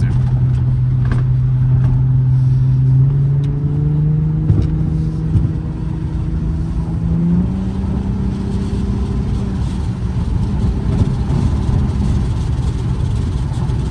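Infiniti G35's 3.5-litre V6 running under way, its note holding steady and then stepping up in pitch twice as the revs climb. The driver hears it as a sign that the engine probably needs new spark plugs.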